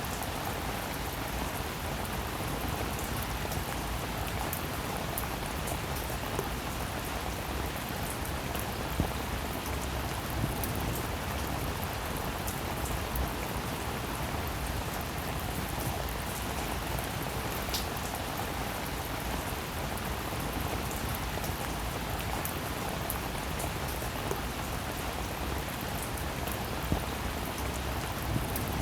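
Steady rainfall, with individual drops striking sharply now and then over the continuous patter.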